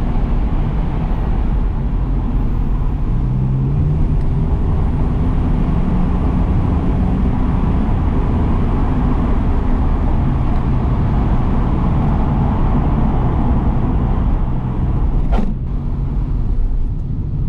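1993 Saab 900 Turbo S's 2.0-litre 16-valve turbocharged four-cylinder engine running steadily under way, heard from inside the cabin with road noise. The engine note rises a little about three seconds in; a single sharp click comes near the end, after which the engine note is quieter.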